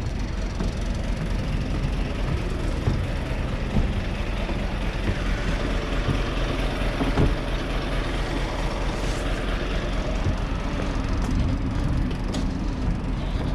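Heavy diesel truck engine running with a steady low rumble.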